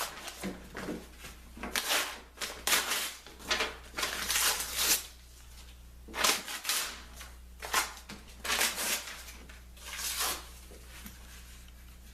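Irregular scrapes, rustles and knocks of hands working on clamped wood: a dozen or so short separate strokes, stopping near the end.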